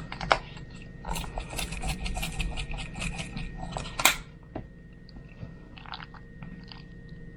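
Close-up chewing of a mouthful of spaghetti: a dense run of quick mouth clicks for about three seconds, a sharp click, then softer, sparser chewing.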